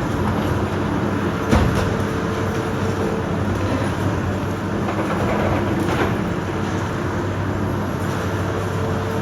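Heavy demolition machinery running with a steady engine drone, with a sharp knock about a second and a half in and another around six seconds in.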